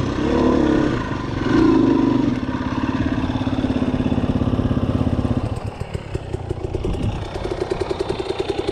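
KTM 250 EXC-F enduro dirt bike engine revving under throttle, then running steadily. About five and a half seconds in it drops back, and near the end it settles to an even, low pulsing idle.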